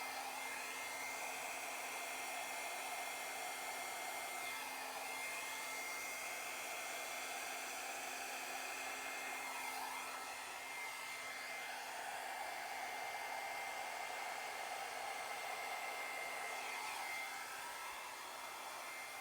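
Hair dryer blowing continuously, a steady rush of air with a thin high whine. The tone swells and dips every few seconds as the nozzle is moved across the wet paint.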